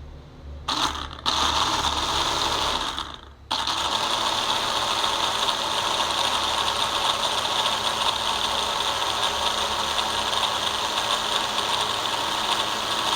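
Small electric motor and rotor of a homemade cardboard toy helicopter running with a rattling, whirring sound. It starts about a second in, cuts out briefly twice, then runs steadily.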